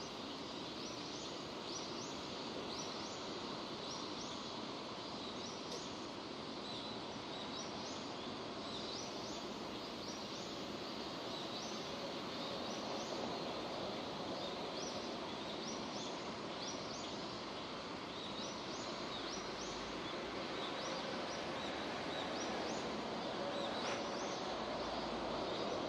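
Steady rain falling, with a small bird calling over it in short, high, rising chirps repeated about once or twice a second.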